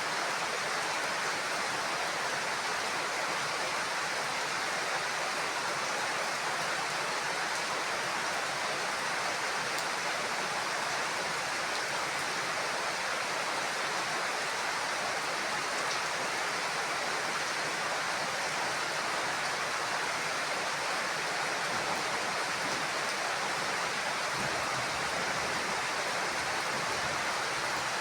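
Heavy rain falling steadily, an even hiss that does not change, with no thunder.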